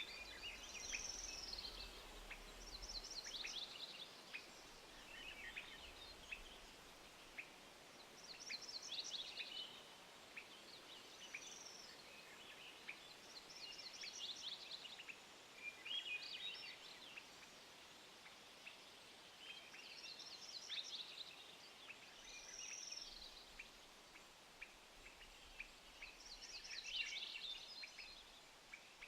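Songbirds singing short phrases of rapid, trilled high notes, one every two or three seconds, over a faint steady background hiss.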